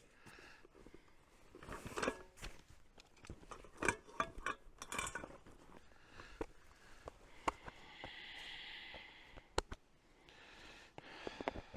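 Camping gear being unpacked from a backpack: fabric and bags rustling, with scattered clicks and knocks as items are handled and set down, and a steadier rustle of a couple of seconds past the middle.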